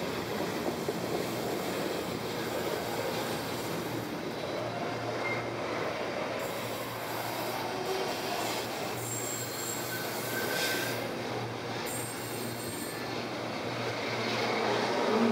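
Container freight train's wagons rolling past at close range, a steady rumble of wheels on rail with thin, faint wheel squeals coming and going in the second half.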